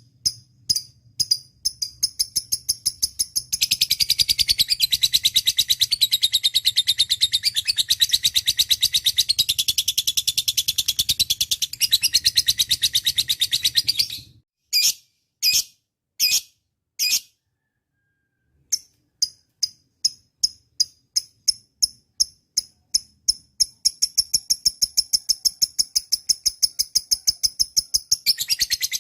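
Lovebird chattering: a run of rapid, sharp high chirps turns into a long, fast continuous trill of about ten seconds. It breaks off into a few single chirps and a short silence, then the chirping resumes and a second long trill starts near the end.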